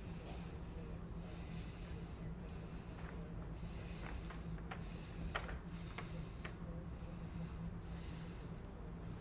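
Faint breathing close to the microphone: soft hissing breaths about every two seconds, with a thin high whistle between them, over a steady low hum and a few light clicks.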